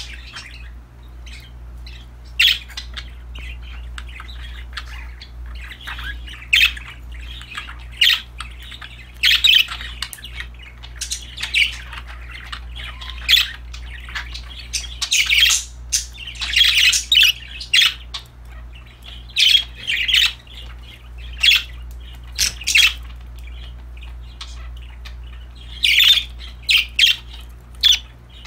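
Pet budgerigars chirping and chattering in many short, quick calls, some coming in dense runs, over a steady low hum.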